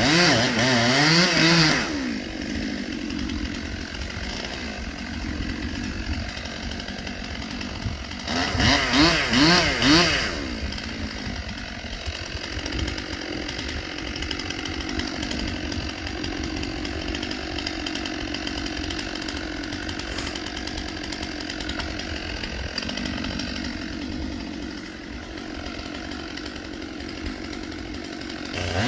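Two-stroke chainsaw revving at full throttle twice, for about two seconds at the start and again about eight seconds in, and idling steadily in between and afterwards.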